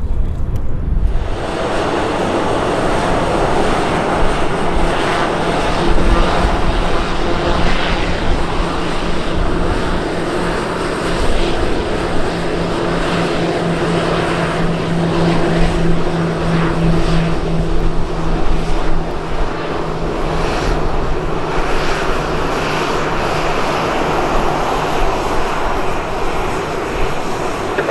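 Airplane engines running loudly as an aircraft moves on or near the runway: a steady rush of engine noise with a low hum and its overtone, strongest about halfway through.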